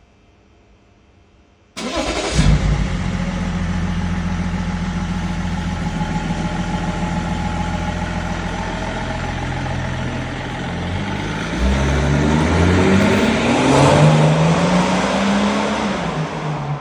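BMW E39 530's straight-six engine starting, catching with a quick flare of revs, then idling steadily. From about ten seconds in it gets louder and revs up in rising sweeps, then drops back near the end.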